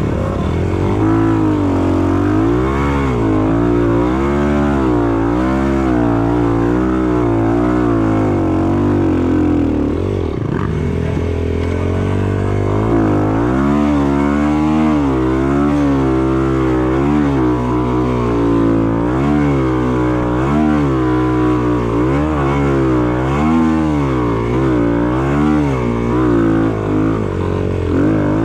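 Enduro dirt bike engine being ridden hard, revving up and down over and over as the throttle is worked, with a brief easing off about ten seconds in.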